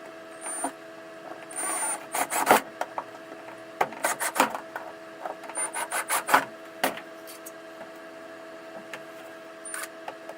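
A screwdriver turning small slot-headed screws through hinges into soft pine, heard as scraping and clicking in three short bouts. A steady hum runs underneath.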